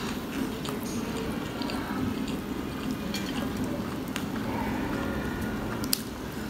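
Close-miked wet chewing of a fried onion pakora, with small moist mouth clicks. Near the end comes a single sharp tap as a fritter is dipped into a glass bowl of chutney.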